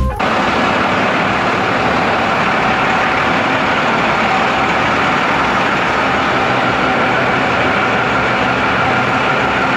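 Ford pickup truck running steadily: a loud, even drone of engine and road noise with a couple of faint steady whining tones.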